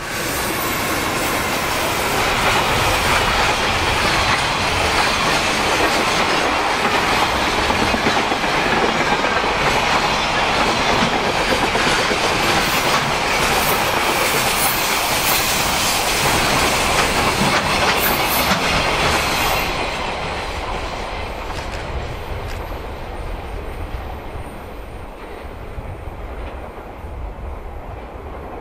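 Freight train of Koki container wagons hauled by an EH200 electric locomotive running close past, its wagons clattering along the track. The noise drops about 20 seconds in as the train draws away.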